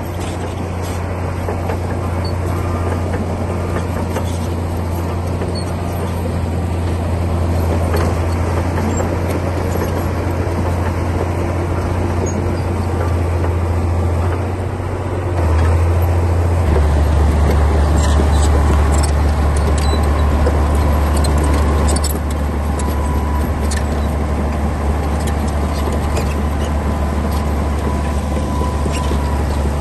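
Komatsu D60P bulldozer's diesel engine running steadily under load, its low note dropping in pitch and getting louder about halfway through, with faint scattered clanks.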